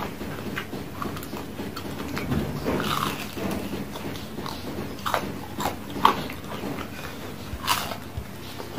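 Close-miked chewing of crunchy battered fried tempeh, with irregular crisp crunches and a few sharper crunches near the end.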